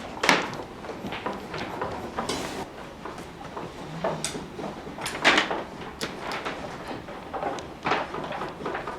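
Scattered knocks and clicks, with faint scraping between them. The sharpest come just after the start and about five seconds in.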